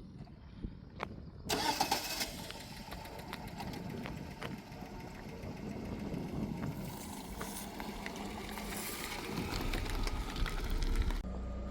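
An engine running, with many clicks and rattles; it comes in suddenly about a second and a half in and cuts off suddenly near the end.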